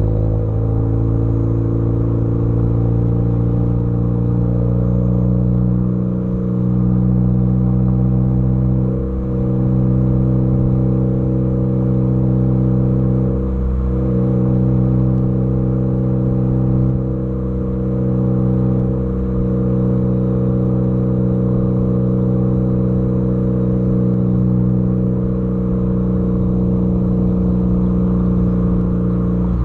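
Ford Focus ST engine and exhaust running at steady revs, a continuous drone that dips slightly now and then.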